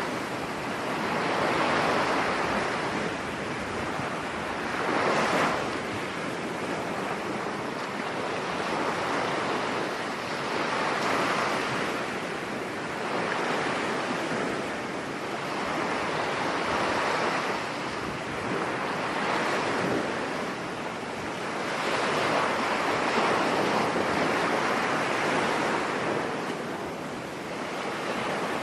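Rough sea surf breaking and washing on a beach in stormy weather, the rush of water swelling and fading every few seconds.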